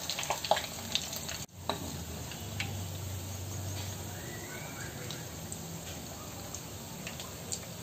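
Potato-stuffed bread rolls sizzling steadily in hot oil in a nonstick kadai, with scattered light clicks of a metal slotted spoon turning them. The sound drops out briefly about one and a half seconds in.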